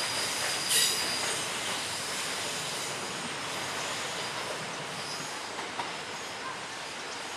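Freight train of covered coal hopper wagons rolling away round a curve, wheels squealing high in the first second over a steady rolling rumble that slowly fades as the train recedes.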